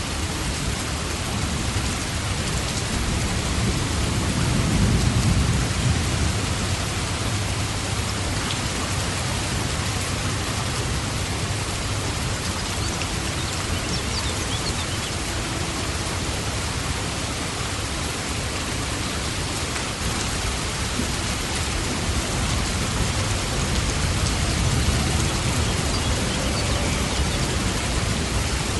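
Steady rain falling, an even hiss, with two low rumbles swelling about five seconds in and again near the end.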